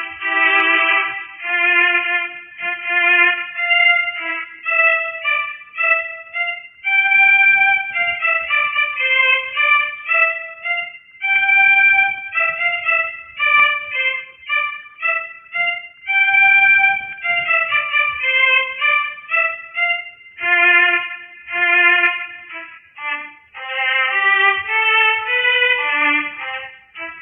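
Background music: a violin playing a melody, with notes changing and gliding.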